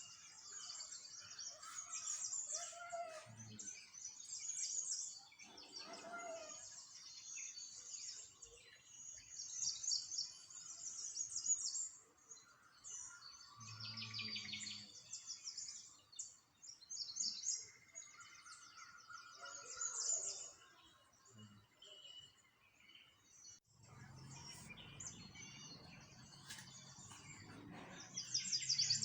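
Small songbirds chirping and twittering in quick, high, repeated trills, several calls overlapping. A low hum joins in for the last few seconds.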